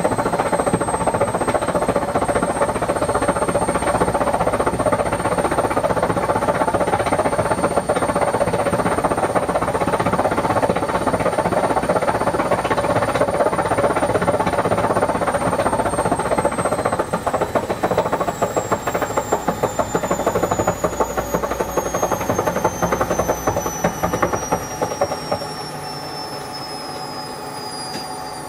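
Whirlpool washing machine spinning its drum at speed: a loud steady rumble with a high whine. From about halfway the whine falls steadily in pitch and near the end the rumble drops away as the drum slows down.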